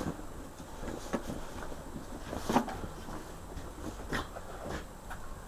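A few scattered light knocks and clicks of things being handled and set down, the loudest about two and a half seconds in; no power tool running yet.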